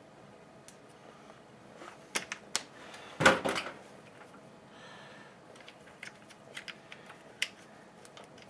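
Small clicks and taps of hands fitting a small clip into a hedge trimmer's throttle housing, with one louder clatter a little over three seconds in.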